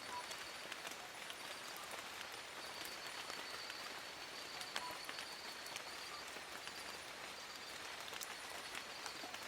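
Steady rain falling on forest leaves: an even hiss with sharp drop ticks scattered through it. A faint, high, rapidly pulsing trill runs through much of it.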